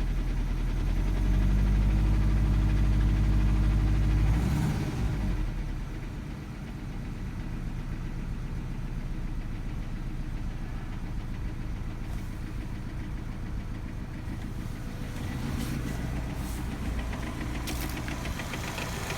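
Subaru EJ257 turbocharged flat-four idling on a cold start with a light rhythmic clacking from the timing belt, the slapping of a belt left slack by a defective hydraulic timing belt tensioner. The clacking is quieter than the engine's running sound, and a louder steady low drone sits over the idle for about the first four seconds.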